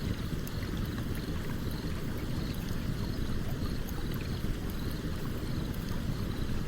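A stream running steadily with a low rushing sound, and a campfire crackling faintly over it in small scattered clicks.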